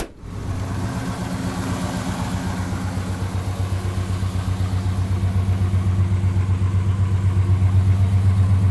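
Rebuilt Chevrolet 350 V8 of a 1979 Chevy truck idling, running through an exhaust with no catalytic converters and mufflers the owner believes are MagnaFlows. A steady, evenly pulsing exhaust note that grows louder toward the end.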